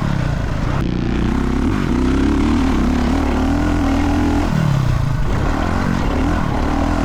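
Dirt bike engine running hard on a motocross track, its pitch wavering with the throttle. About four and a half seconds in, the revs drop sharply, then climb back up.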